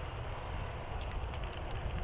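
Train running past with a steady low rumble; about a second in, a quick run of sharp clicks joins it.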